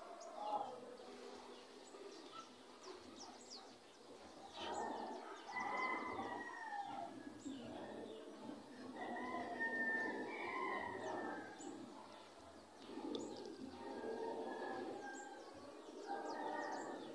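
Birds calling and chirping, with many short high chirps and several longer, louder calls that come and go every few seconds.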